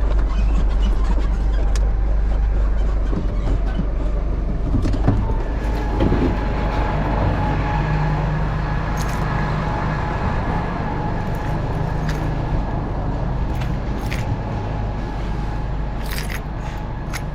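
Tow truck engine running with a steady low rumble. A few sharp clicks come near the end.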